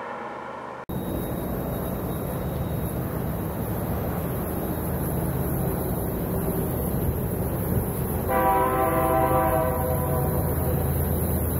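Double-stack intermodal freight cars rolling past with a steady rumble of wheels on rail. About eight seconds in, a train horn sounds once for about a second and a half.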